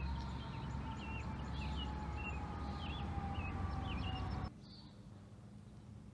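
Small birds chirping in short repeated calls over a low outdoor rumble; the whole sound cuts off abruptly about four and a half seconds in, leaving a quieter background.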